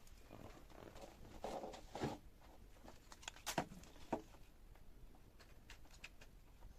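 Faint handling noises: light rustling with a few taps and knocks, the loudest about two and three and a half seconds in.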